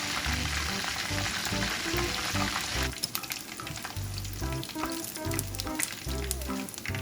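Food sizzling in a hot pan: a dense sizzle over about the first three seconds that then thins out, with background music.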